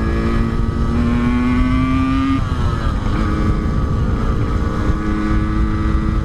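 Yamaha RX-King's 135 cc two-stroke single-cylinder engine running while riding, fitted with an aftermarket Altec C20 exhaust. Its note climbs slowly for a little over two seconds, drops suddenly, then holds steady, over a low wind rumble.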